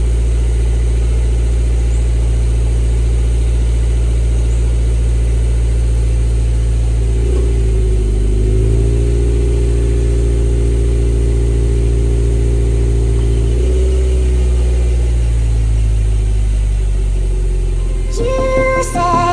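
Subaru XV GT's flat-four engine idling through an upgraded aftermarket exhaust, then raised to a higher engine speed about seven seconds in and held steady for about six seconds before dropping back to idle. Music comes in near the end.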